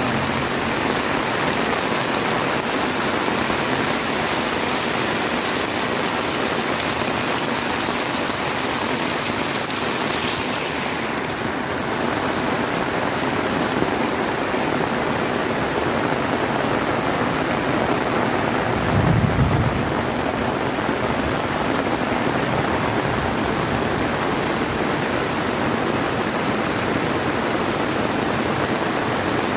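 Heavy rain pouring steadily, with a short low rumble of thunder about two-thirds of the way through.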